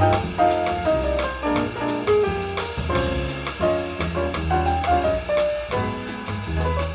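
Small jazz group playing live in swing time: a bass line, piano playing runs of notes, and a drum kit keeping time on the cymbals.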